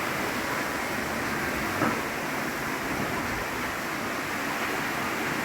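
Heavy rain pouring steadily, with a single short knock about two seconds in.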